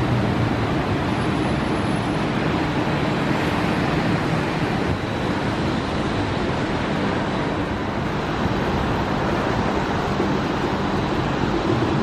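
Steady road noise heard from inside a moving car: engine and tyre hiss.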